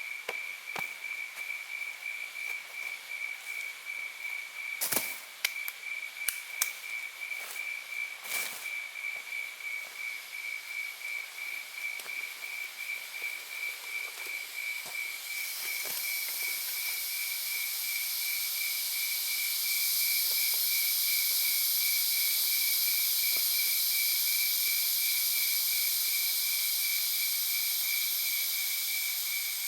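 An insect chirping steadily, a high pulsing trill that never stops, with a few sharp cracks about five to eight seconds in. A high hiss swells up about halfway through and stays loud.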